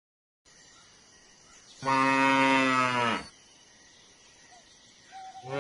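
A cow mooing: one moo of about a second and a half that drops in pitch as it ends, then a second, louder moo starting near the end.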